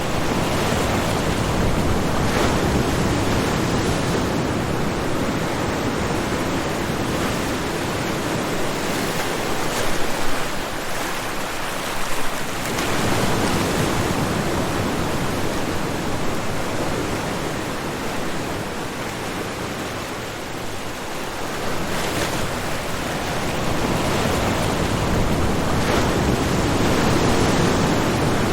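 Ocean waves breaking on a shore: a continuous rush of surf that swells and eases slowly, with a couple of louder crashes near the middle.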